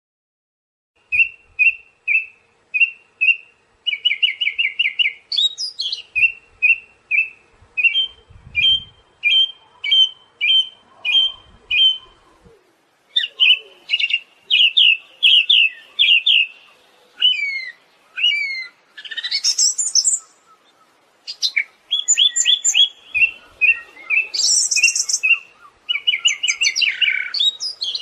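Siberian thrush singing, starting about a second in: quick runs of repeated chirping notes broken by short pauses, with some higher whistled and sliding notes mixed in.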